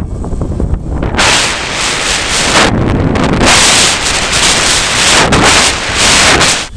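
Strong gusty wind buffeting the microphone: a loud rushing noise over a low rumble, swelling from about a second in and surging and easing in gusts.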